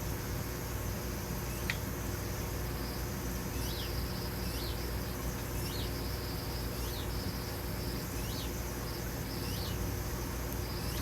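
A small bird repeating a short high chirp, roughly one to two a second, starting a few seconds in, over a steady low hum.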